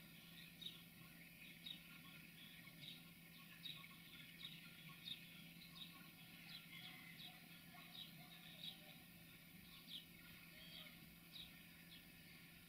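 Faint, near-quiet outdoor sound: a small bird chirping over and over, a short high chirp every second or so, above a low steady hum from the distant diesel locomotive.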